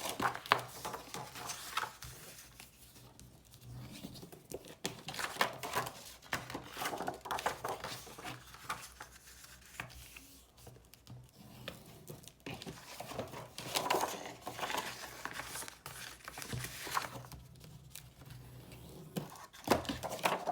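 12x12 cardstock being folded along its score lines and creased with a bone folder: irregular paper rustling, crinkling and sliding scrapes with light taps.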